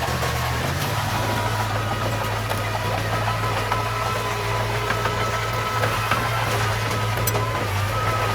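Heavy diesel machinery engine running steadily, with faint scattered clicks and a thin whine over it; the engine note shifts slightly about a second in.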